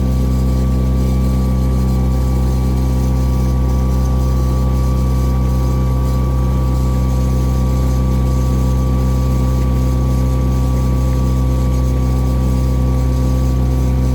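A lake cruise boat's engine running steadily with an even, unchanging low hum.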